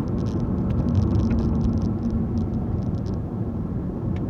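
Car driving along a road, heard from inside the cabin: a steady low rumble of engine and tyre noise with a hum, and light irregular ticks in the first three seconds.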